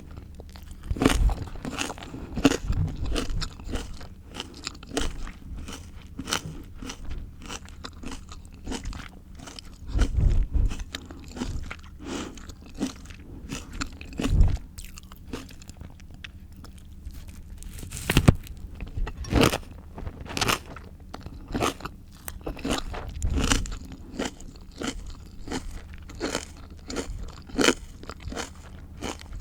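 Close-miked biting and chewing of crisp raw fruit and vegetables: a dense, irregular run of sharp crunches, with a few louder bites spread through.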